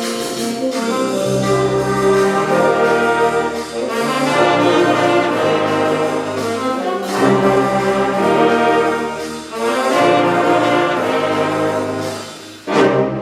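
Wind ensemble playing, brass to the fore, sustained chords swelling and easing in phrases. A sudden loud hit comes near the end.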